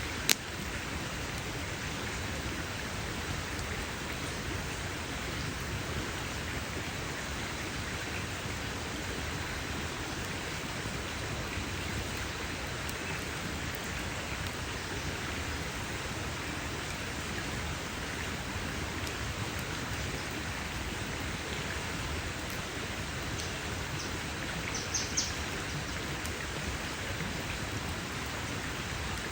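Wood campfire burning with a steady, dense crackle and hiss. A sharp pop comes just after the start, and a few smaller pops come near the end.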